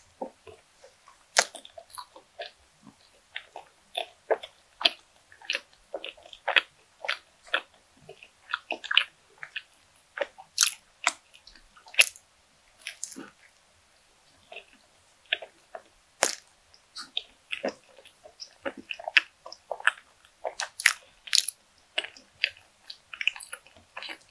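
Close-miked mouth sounds of a person eating a soft bun filled with whipped cream: bites and chewing, with many short, irregular mouth clicks, several a second.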